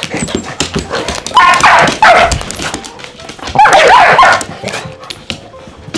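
Dogs play-fighting: two loud bursts of barking and yipping, about a second and a half in and again around four seconds, over scuffling and thumping throughout.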